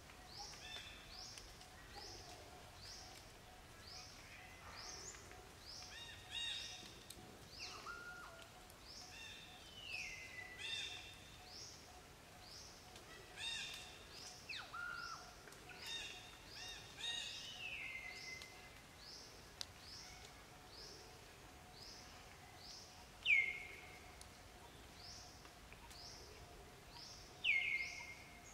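Wild birds calling: a short high chirp repeated steadily, about three times every two seconds, among other falling calls. Two louder whistles drop in pitch and level off, one late on and one near the end, over a faint steady tone.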